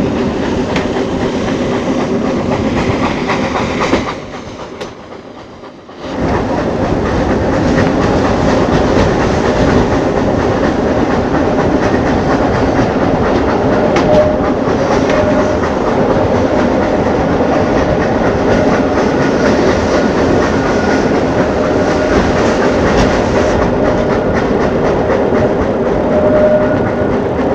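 Narrow-gauge train behind a steam locomotive running, heard from a coach window: a steady rolling noise with the clickety-clack of wheels over rail joints. The sound drops away for about two seconds about four seconds in, then comes back at full strength.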